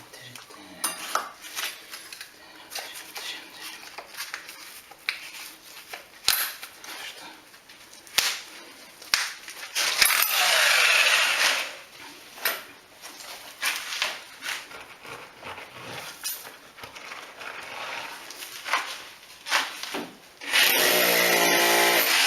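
Power drill boring through a house wall: scattered knocks and clicks of work at the hole, a short run of the drill about ten seconds in, then the drill starting up again near the end and running steadily.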